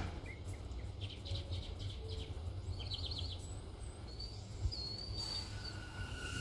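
Small birds chirping and twittering over a low steady rumble. Near the end a thin steady whine sets in, the first sound of an approaching subway train's wheels on the rails.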